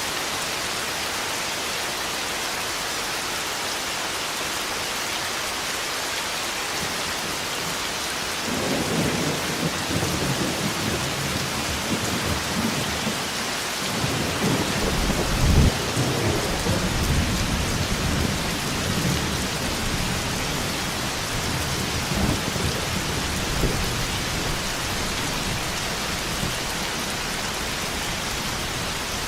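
Steady heavy rain, with a long rolling rumble of thunder that builds about a third of the way in, peaks near the middle and fades out before the end.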